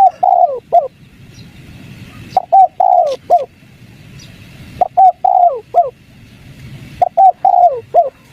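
Spotted dove cooing its 'kuk 3' call: four phrases about two to two and a half seconds apart, each a short coo, a longer coo falling in pitch, and a short closing coo.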